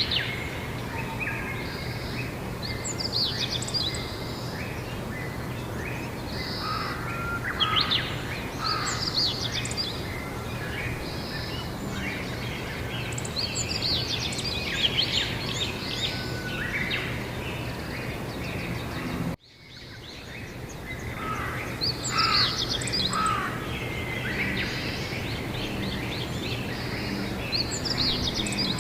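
Several birds singing and chirping in spring, in short overlapping phrases, over a steady low background hum. About two-thirds of the way through, the sound cuts out abruptly and fades back in.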